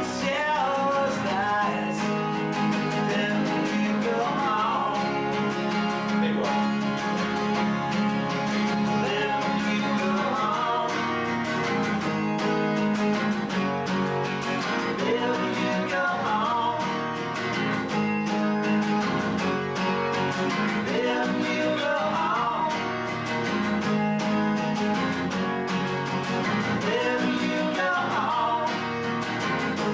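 Acoustic guitar playing a song in a rehearsal, plucked and strummed at an even level, recorded through a basic VHS camcorder microphone.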